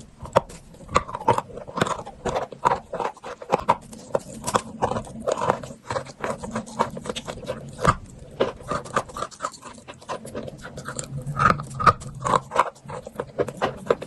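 Close-up crunching and chewing of chalk: irregular sharp cracks and crackles, several a second, with wet mouth sounds between.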